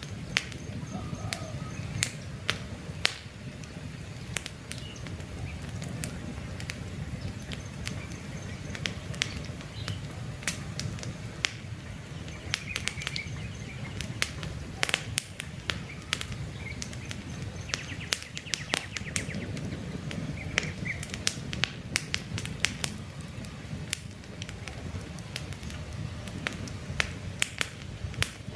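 Wood campfire crackling, with frequent irregular sharp pops over a low rush of burning flames. Faint bird chirps come and go in the background.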